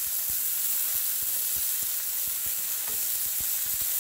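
Sausage patties and shredded-potato hash brown cakes frying on a Blackstone flat-top griddle: a steady sizzling hiss with frequent small pops of spitting fat.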